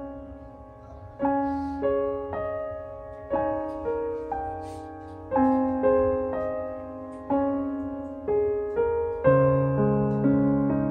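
Solo piano music: slow, gentle notes struck about once a second and left to ring, with lower bass notes joining near the end.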